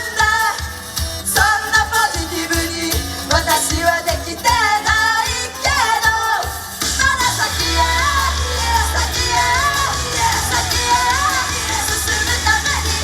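Japanese idol-pop song with singing over a full backing track. The vocals are dense in the first half and thin out after about seven seconds as a heavy steady bass takes over.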